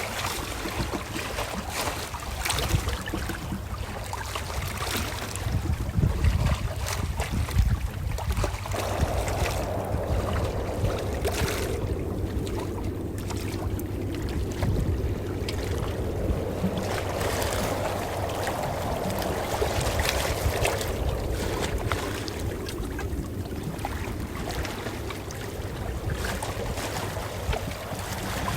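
Calm ocean waves washing in, an even wash of water noise with small irregular splashes over a steady low rumble.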